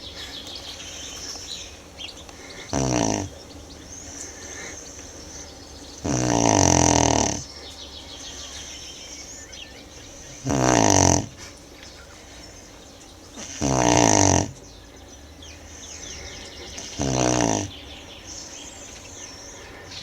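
Tibetan Mastiff snoring in its sleep: five loud, rattling snores, one every three to four seconds.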